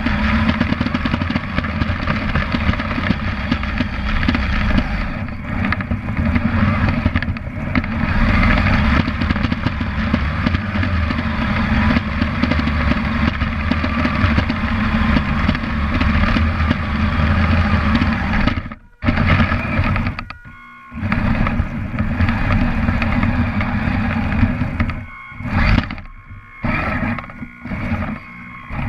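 Kyosho Blizzard RC snowcat running, heard from a camera mounted on it: the electric motor and gearbox drive its tracks as it pushes snow with its plow. It cuts out briefly several times near the end as the throttle is let off.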